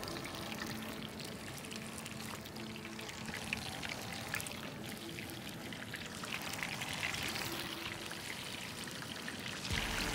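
Fish pieces frying in hot oil in a frying pan over a charcoal grill: a steady sizzle full of fine crackles.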